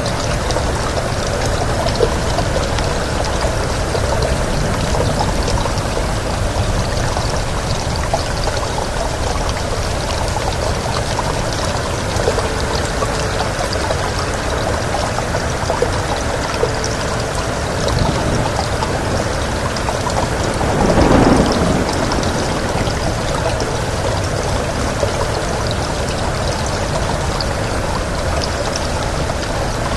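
Steady heavy rain pouring down, with a brief louder swell about two-thirds of the way through.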